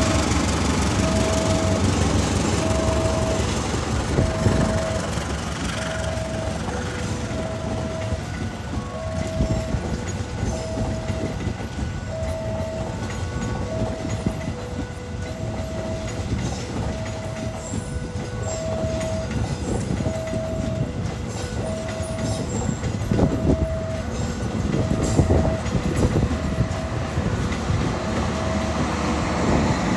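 A passenger train running past, its wheels rumbling and clacking over the rail joints. Over it a level-crossing warning signal sounds a steady alternating two-note tone, high and low, that stops near the end.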